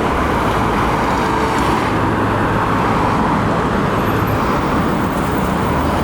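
Steady road traffic noise: an even, continuous rush of passing cars with no distinct events.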